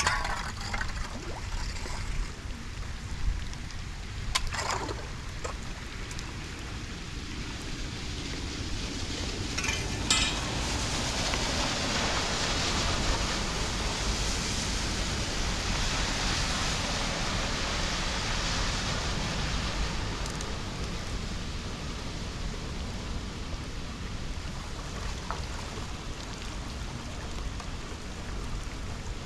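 Steady rain falling on a flooded road, with wind rumbling on the microphone. There are two short, sharp sounds early on, and the rain hiss swells for several seconds past the middle.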